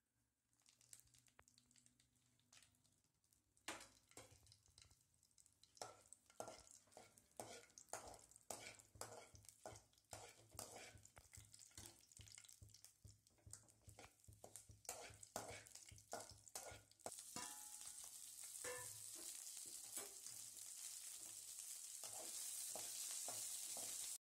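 Dried red chillies and green chillies frying in hot oil in an aluminium kadai, crackling with many sharp clicks and pops. About two-thirds of the way through, a steady sizzling hiss takes over.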